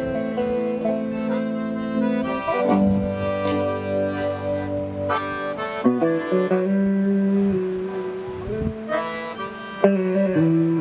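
Accordion and guitar duo playing instrumental music live, the accordion carrying the melody in held reedy notes over the guitar.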